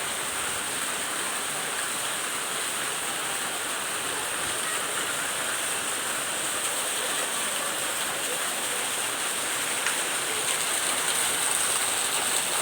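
Rain falling steadily, a continuous hiss that grows slightly louder near the end.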